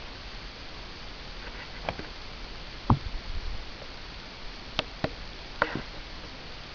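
A handful of separate sharp knocks over a steady hiss, the loudest a deep thud about three seconds in: the stamps and strikes of a Chen-style taijiquan form.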